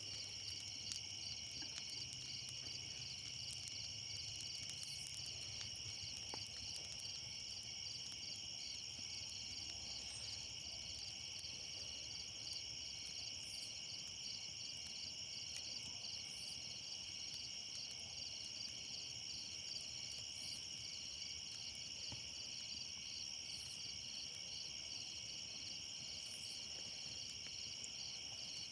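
Outdoor insect chorus: a steady, high-pitched shrill drone made of many fast, even pulses, holding without a break.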